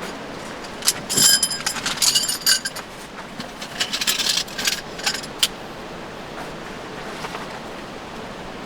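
Small metal pieces clinking and jangling against each other for a few seconds, with sharp clicks and short ringing tones, over a steady rushing background hiss.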